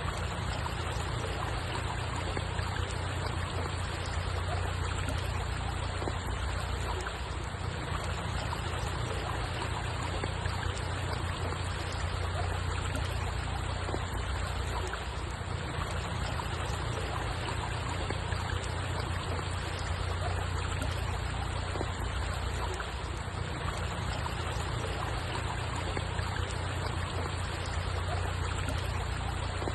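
Steady, unbroken rush of flowing water with a low rumble underneath.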